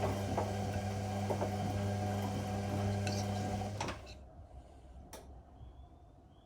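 Whirlpool Indiana 1400 front-loading washing machine mid-wash: the drum motor hums steadily with scattered clicks as the drum turns, then stops about four seconds in as the drum pauses, followed by a single click.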